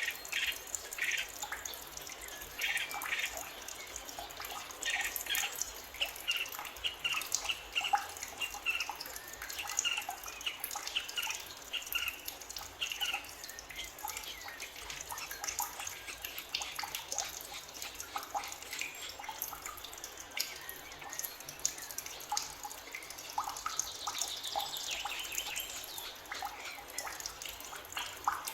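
Forest birds chirping and calling, a dense scatter of short notes with a few longer whistled phrases, over a steady trickle of water.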